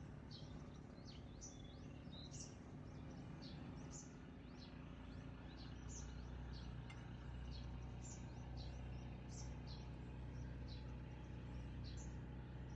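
Small birds chirping: short, high, repeated chirps, about one or two a second, over a faint low steady hum that grows slightly about five seconds in.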